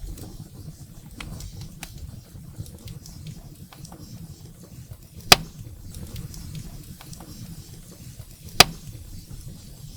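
Wood fire burning in a fireplace: a low steady rumble of flames with small crackles, and two loud sharp pops about three seconds apart, in the middle and near the end.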